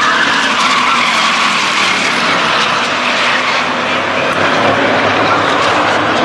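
Pack of racing trucks running at speed on a short oval track, a steady loud wash of engine noise.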